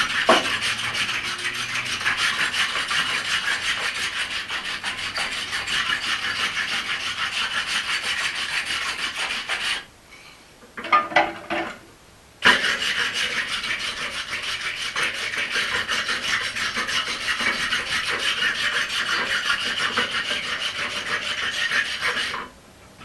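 A hand tool scraping rapidly and continuously over the forged steel axe head, as in cleaning up after forging. It runs in two long stretches of about ten seconds each, broken about ten seconds in by a short pause with a few brief knocks.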